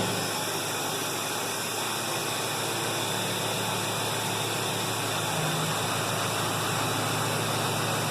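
2012 LML Duramax 6.6-litre V8 turbodiesel idling steadily just after a cold start at about 33°F, a constant low drone with an even hiss over it.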